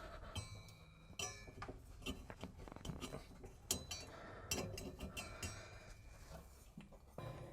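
Faint, irregular metallic clinks and taps, some ringing briefly: the fan oven element and its wire connectors being handled against the oven's steel cavity.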